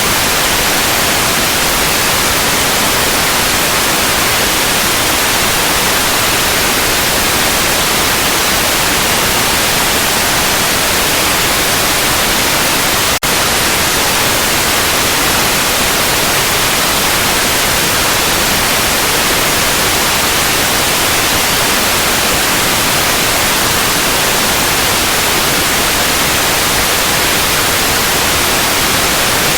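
Steady white noise, an even full-range hiss, with a momentary drop in level about thirteen seconds in.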